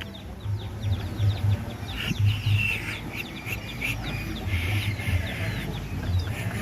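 Pet birds chirping and calling in quick short notes, many of them falling in pitch, over a low pulsing hum.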